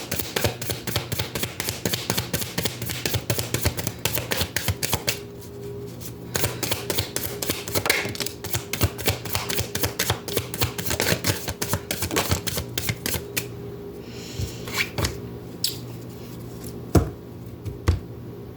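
A deck of oracle cards being shuffled by hand: a dense run of quick card clicks for about thirteen seconds that then thins out. A couple of sharper single taps come near the end.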